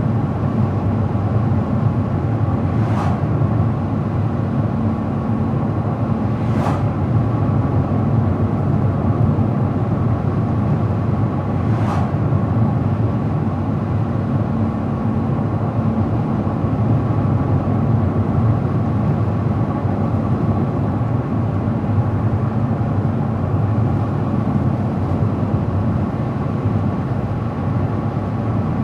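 Steady road noise of a car driving at speed: a low hum of tyres and engine under a constant hiss. Three short sharp ticks come in the first half.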